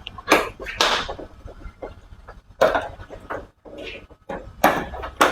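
Sharp plastic clicks and knocks from the clip-fastened bezel of an LCD TV's backlight box being pried off, several separate snaps a second or more apart.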